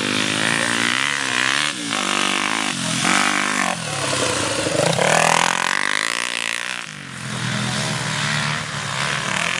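Motocross bike engines revving hard, the pitch repeatedly climbing as they accelerate and dropping as they shift or back off, several times over.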